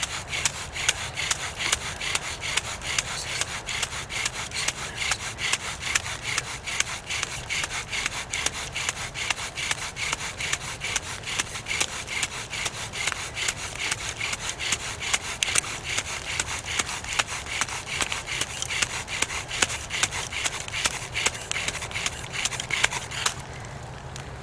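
Bow drill at work: the wooden spindle is sawed back and forth by the bow and grinds in the fireboard's notch in rapid, even strokes. The spindle is already smoking and the strokes are building an ember. The strokes stop about a second before the end.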